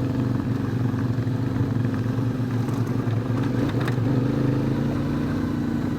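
Motorcycle engine running at a steady speed, its pitch stepping up slightly about four seconds in.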